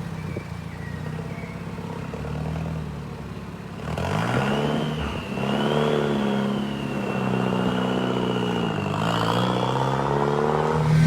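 Vuhl 05 supercar's turbocharged engine running low and steady, then about four seconds in revving up as the car pulls away, its pitch climbing, dropping back and climbing again through gear changes. A thin high whine rides over the engine while it pulls.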